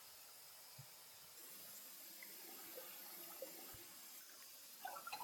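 Near silence with faint creek water trickling, a couple of soft low thuds, and a run of small drip-like clicks near the end.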